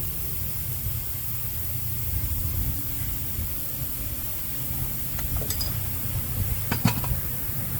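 Steady low mechanical hum with a hiss over it. A few short, sharp metallic clinks come about five seconds in and again about seven seconds in.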